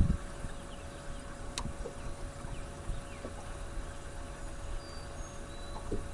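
Faint, scattered bird chirps over a steady hum and a low rumble, with a single sharp click about a second and a half in.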